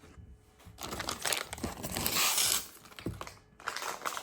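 Toy packaging being handled and crinkled, with a louder stretch of crinkling about two seconds in and a single knock about three seconds in.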